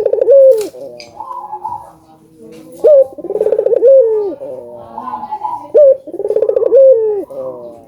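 Ringneck (Barbary) dove cooing: a short sharp note followed by a longer rolling coo that falls away at its end, repeated about every three seconds, three times in all.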